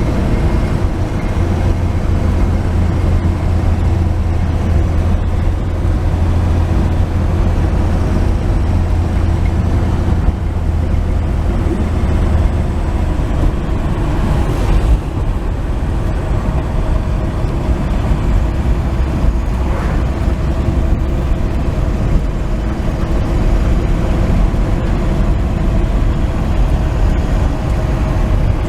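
Steady low drone of a 1949 Chevrolet 3100 pickup's inline-six engine and road noise, heard from inside the cab while cruising.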